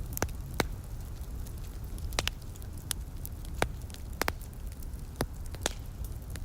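Wood fire crackling: about ten irregular sharp pops over a steady low rumble.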